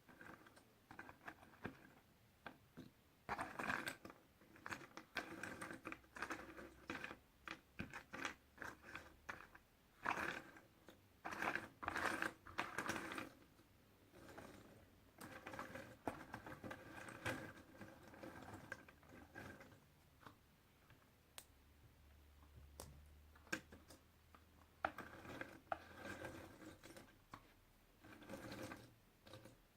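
Puzzle pieces being handled and moved about on a surface: quiet clusters of light clicks and scratchy rustles, easing off for a few seconds past the middle apart from a few sharp ticks, then picking up again near the end.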